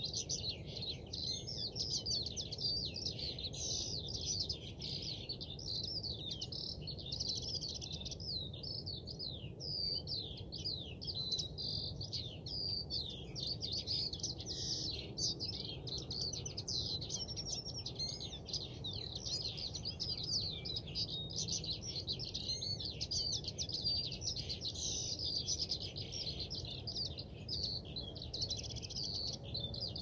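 Many small birds chirping and twittering, a dense stream of quick overlapping calls with no break.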